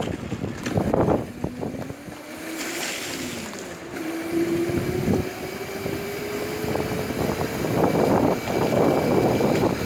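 Razor MX350 electric dirt bike's electric motor whining as it rides, the pitch rising slowly as it picks up speed, with wind buffeting the microphone.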